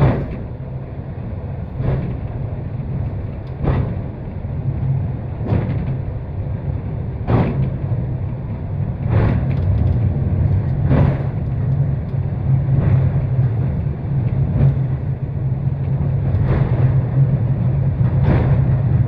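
Takao-san cable car climbing its steep track: a steady low rumble from the running car, with a regular clunk about every two seconds as the wheels roll over the track, growing a little louder about halfway through.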